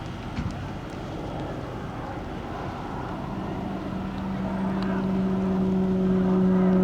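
A vehicle engine drawing near over outdoor background noise: a steady, even-pitched drone sets in about halfway through and grows louder toward the end.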